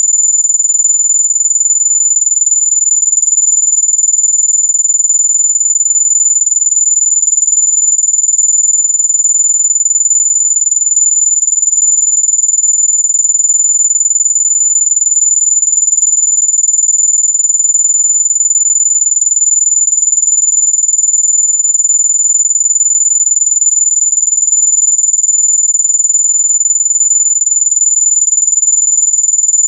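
Electronic mosquito-repellent tone: a single very high-pitched, unwavering whistle, held steady and loud throughout, of the kind played to drive mosquitoes away.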